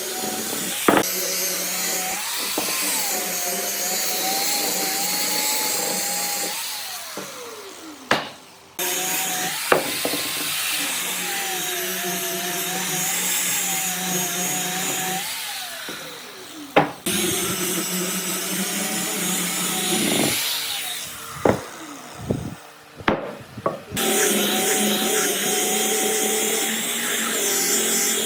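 Handheld electric power tool working wood, its motor whine dipping and wavering as it meets the wood. It is switched off and spins down, falling in pitch, then starts again abruptly, about 8 s and 17 s in and again near 24 s. A few sharp knocks are heard along the way.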